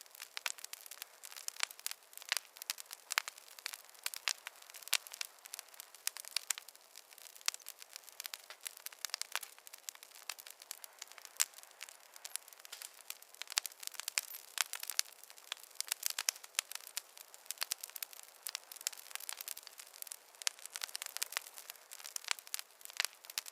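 Open wood fire crackling: a dense, irregular stream of small sharp pops and snaps.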